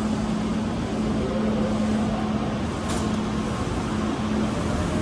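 Steady low hum and rumble of a Tokaido Shinkansen train at the platform, with a short click about three seconds in.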